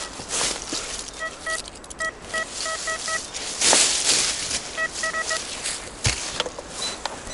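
Metal detector giving short, evenly pitched beeps in two quick clusters, over a steady rustling of leaves and forest litter. A loud rustle comes a little over halfway, and a single knock near the end.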